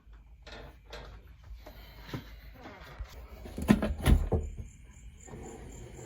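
A scatter of light knocks and clicks, with two louder clunks about three and a half and four seconds in, like a window or cupboard being handled.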